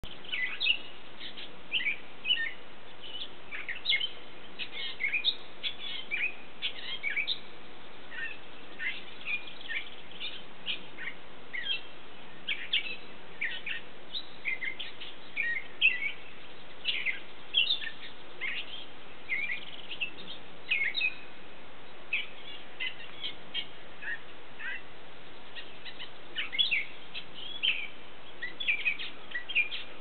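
A flock of small birds chirping in a leafy tree: many short, high, overlapping chirps, several a second, over a steady background hiss.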